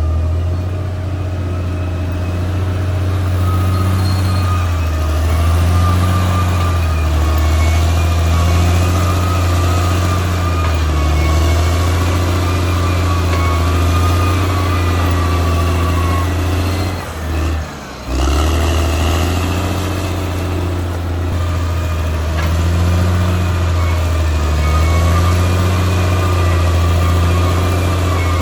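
Caterpillar D6R XL bulldozer's diesel engine running under working load, its deep drone swelling and easing every few seconds, with a thin steady whine over it. It drops away briefly about two-thirds of the way through.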